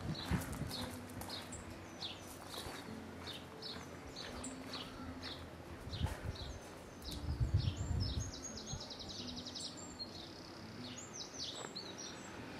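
Songbirds chirping outdoors: many short, repeated high chirps, with a fast trill just before the middle. Low rumbles come and go around the middle.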